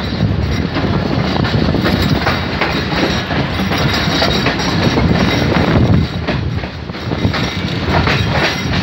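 Pakistan Railways passenger train running through a station, heard from its own carriage doorway: a steady rumble of wheels on rail, with the clickety-clack of the wheels over rail joints.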